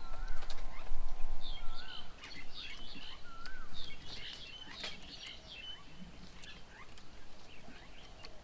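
Several wild birds chirping and calling at a garden bird table, busiest in the first half with short twisting whistles among many quick chirps, then sparse. A steady hum with a low rumble runs under the first two seconds.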